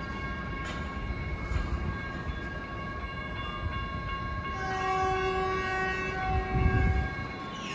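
Caltrain Stadler electric multiple unit sounding its multi-tone horn once, held for about two and a half seconds, as it prepares to depart. Under it a steady electrical hum from the standing train.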